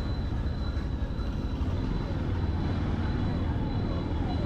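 Steady running noise of a vehicle being driven on a road: a dense low rumble of engine and tyres that keeps an even level, with a faint thin steady whine high above it.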